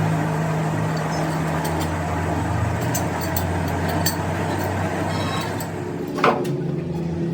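Steady machine or engine hum, with a few faint clicks and one sharp knock about six seconds in.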